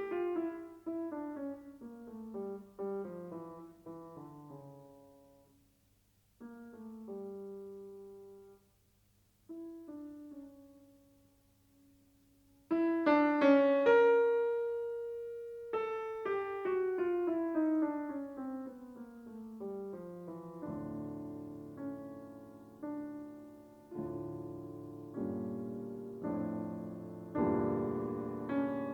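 Solo piano music: descending runs of notes that fade out into two brief pauses, then a loud chord followed by another descending run, and steady repeated chords in the last third.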